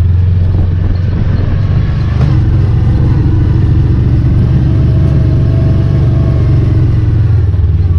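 A vehicle engine idling steadily, a loud, even low hum heard from inside the vehicle.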